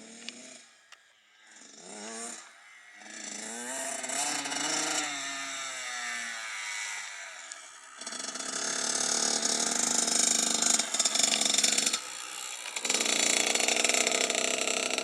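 Kawasaki KX85 two-stroke dirt bike engine revving, its pitch rising and falling, then running louder and steadier from about halfway, with a brief drop in revs about three quarters of the way in.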